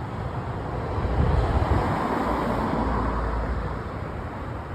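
A car passing on the road: tyre and engine noise swelling to its loudest about two seconds in, then fading away.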